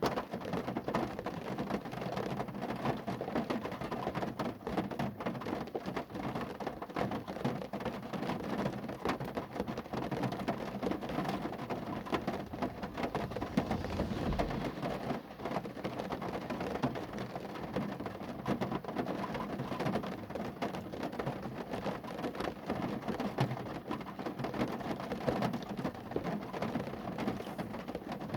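Rain falling on a car, a steady, dense patter of drops on the bodywork, with one brief low thud about halfway through.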